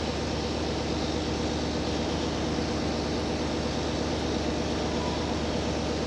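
Steady interior running noise of a JR Hokkaido H100 DECMO diesel-electric railcar: a low engine and traction hum under wheel-and-rail rumble, at an even level throughout.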